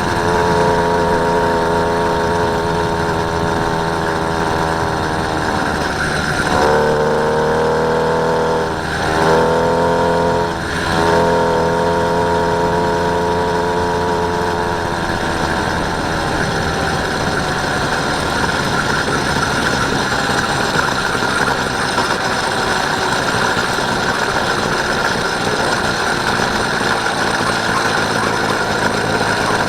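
Small motorised bike engine running under way; about a quarter of the way in its pitch drops and climbs back twice as the throttle is eased and opened, then it holds a steady drone.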